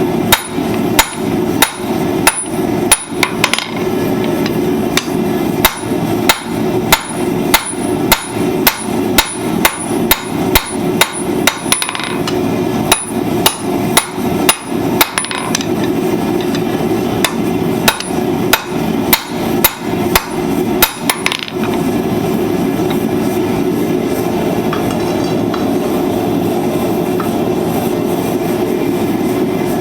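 Blacksmith's hammer striking hot steel on the anvil while forging a pair of flat-nib tongs: a run of sharp, ringing blows, about one to two a second with a few brief pauses, stopping about 21 seconds in. A steady low rumble runs underneath throughout.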